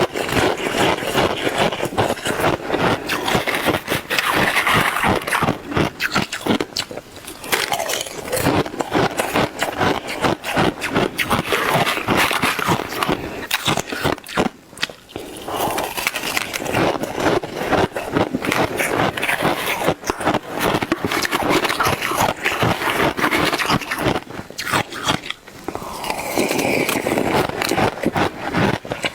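Shaved ice being bitten and chewed, a dense run of crunching crackles with a short break about halfway through.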